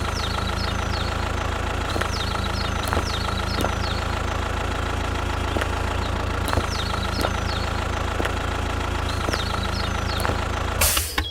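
A small engine running steadily at idle with a faint regular knock. Over it come runs of short, high, falling chirps.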